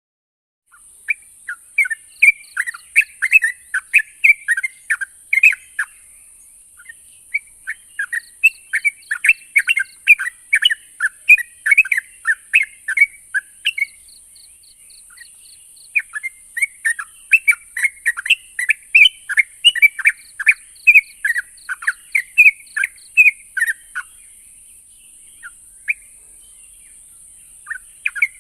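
Yellow-vented bulbul (trucukan) singing: phrases of quick chattering notes lasting several seconds, broken by short pauses, over a steady high hiss.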